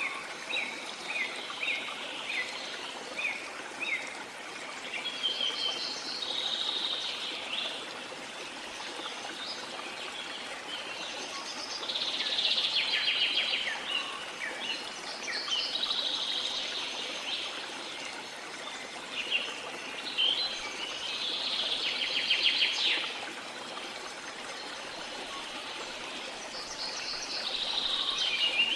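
Jungle birds singing over the steady rush of a waterfall: a run of quick chirps at first, then longer warbling, trilled phrases every few seconds.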